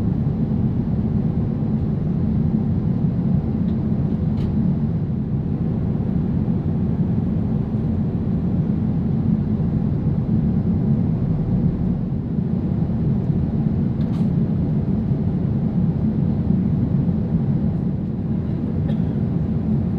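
Steady cabin noise of an Airbus A380 in flight, a deep even rumble of engine and airflow heard from an economy seat, with a couple of faint ticks.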